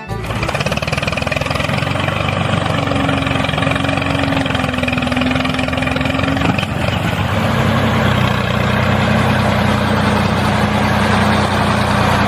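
An engine running steadily, starting abruptly as the music cuts out, with a steady hum that drops slightly in pitch about seven seconds in.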